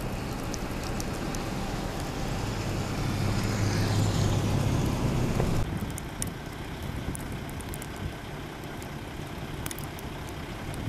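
Road traffic on a snowy interstate: a vehicle's engine hum and tyre noise on the wet, slushy road swell as it passes, then cut off abruptly about five and a half seconds in. Steadier, quieter road noise with scattered light ticks follows.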